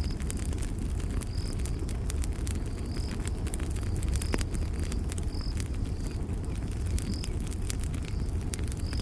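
Campfire burning with frequent sharp crackles and pops over a steady low rumble, while a cricket chirps in the background about once a second.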